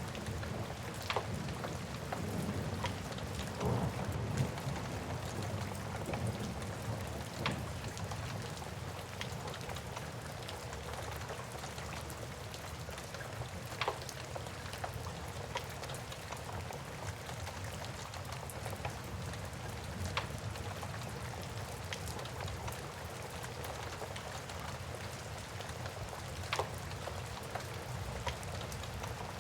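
Steady rain with a low rumble, mixed with a wood fire crackling: sharp single pops every few seconds.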